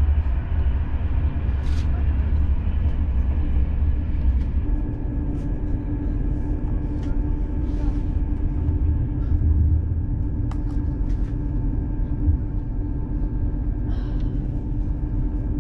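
Passenger train interior while running: a steady low rumble with a steady hum that grows stronger about four and a half seconds in, and a few scattered clicks and rattles.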